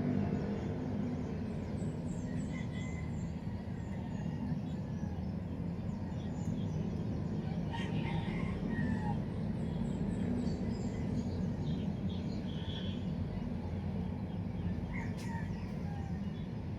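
Outdoor ambience: a steady low rumble with scattered short bird chirps above it, a small cluster of chirps about eight seconds in.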